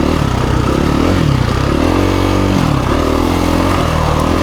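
2017 KTM 350 EXC-F's single-cylinder four-stroke engine running under way, its revs rising about two seconds in and dropping back about a second later.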